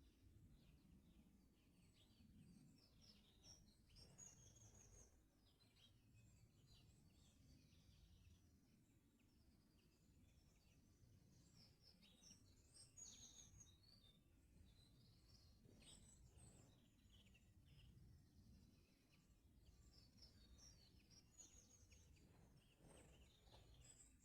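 Faint songbird song: scattered high chirps and short trills, with a phrase of quick repeated high notes coming back about every nine seconds, over a low rumble.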